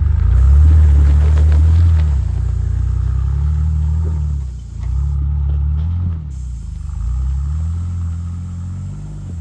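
Jeep engine revving up and easing off in about four surges as it climbs an icy, snowy hill.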